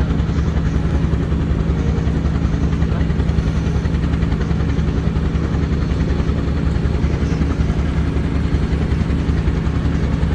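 Small propeller plane's piston engine running steadily, a low, even drone with a fast propeller beat.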